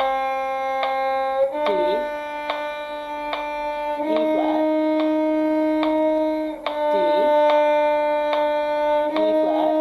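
Bowed violin holding long, even scale notes, changing pitch about every two and a half seconds, as in a G harmonic minor scale played in rising thirds. A voice calls out a note name at each change.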